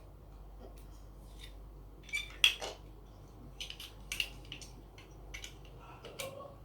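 Plastic Lego bricks clicking and clattering as pieces are handled: a quick cluster of sharp clicks about two seconds in, the loudest, then scattered single clicks.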